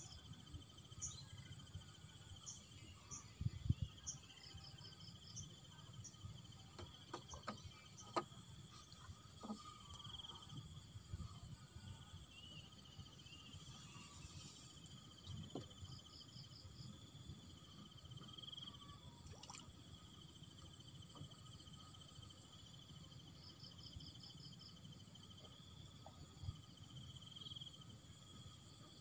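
Insects trilling steadily in a high-pitched drone, with runs of short repeated chirps, over a low background rumble. The drone thins out for a moment a few times, and a few sharp knocks come about four and eight seconds in.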